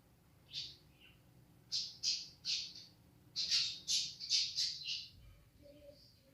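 A bird giving short, high squawking calls: one about half a second in, three around two seconds in, then a quicker run of about six.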